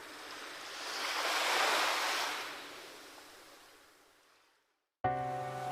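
Ocean surf: a wash of waves swells a second or two in, then fades away to silence. A new sound with a steady hum cuts in abruptly near the end.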